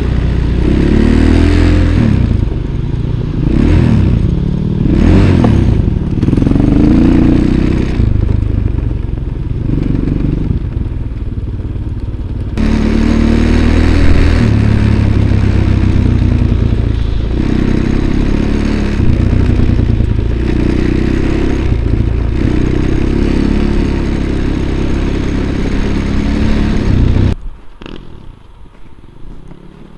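Motorcycle engine running under changing throttle while being ridden, with some clatter and scraping. The sound drops away abruptly near the end.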